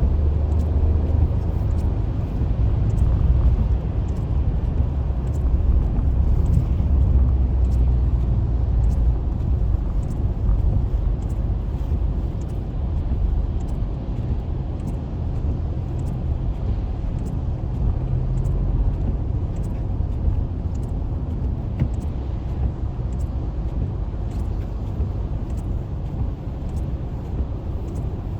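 Car cabin noise while driving on a highway in the rain: a steady low rumble of engine and tyres on wet road, with faint light ticks throughout.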